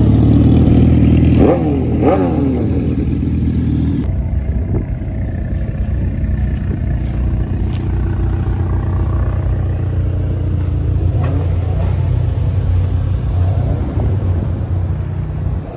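Car engine idling with a deep rumble, blipped twice in quick succession near the start, each rev rising and falling in pitch, then settling back to a steady idle.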